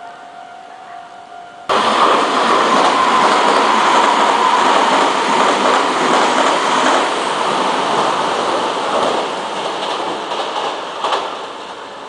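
Meitetsu 3000-series family electric commuter train passing through the station at speed: a loud rush of steel wheels on rail with a whine, starting abruptly about two seconds in and fading over the last few seconds, with a few wheel clacks near the end. Before it, a faint steady tone.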